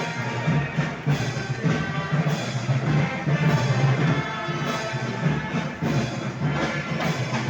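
Festival band music with drums, of the kind played at Moros y Cristianos fiestas.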